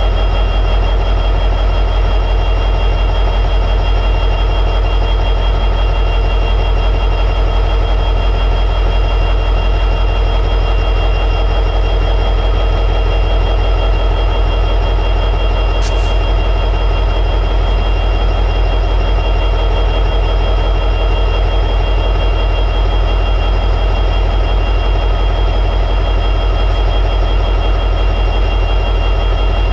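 EMD 710G3B two-stroke diesel prime mover of an SD60E locomotive running steadily at high idle: a deep, even engine drone with steady high tones over it. A single brief click about halfway through.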